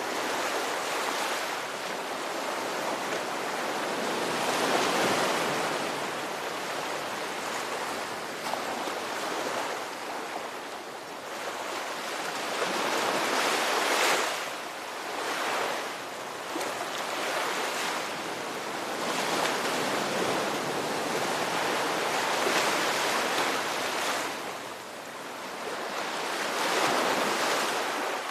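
Ocean surf: waves breaking and washing in, a steady rushing that swells and eases every few seconds.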